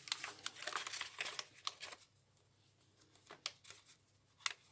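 Soft rustling and light ticks of paper and card being handled and opened out in a handmade journal. The rustling fades about two seconds in, leaving only a few faint taps.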